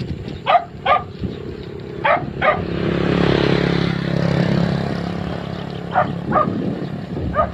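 A dog barking in quick pairs of barks, again and again. Midway a motor vehicle passes, its engine hum swelling and then fading.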